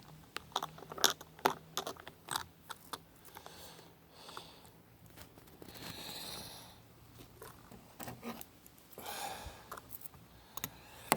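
Small metal diecast car bodies being handled: scattered light clicks and taps, with a few short soft hissing noises in between.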